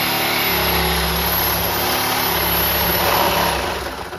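Handheld power cutting tool running and cutting through the sheet-steel roof panel of a 1963 Chevy, with a steady high whine over a harsh cutting noise, easing off near the end.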